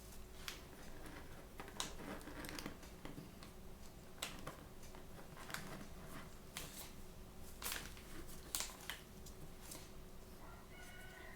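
Toy packaging being handled and opened by hand, with scattered crinkles and sharp clicks, a few of them louder.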